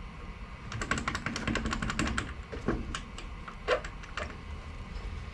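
A quick run of light clicks and clinks, about a second in, then a few scattered ones: small metal parts and tools being handled while fitting parts by hand.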